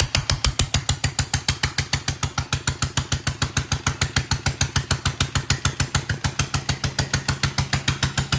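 Bernard D1 single-cylinder petrol stationary engine running steadily, its exhaust beating in an even, rapid rhythm of about eight beats a second.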